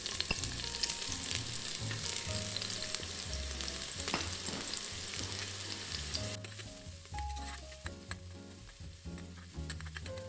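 Chopped onion, garlic and seasoning peppers sizzling in hot oil in a stainless steel pressure cooker. The sizzle is loud for about six seconds, then drops suddenly to a quieter hiss, and near the end a metal spoon stirs them.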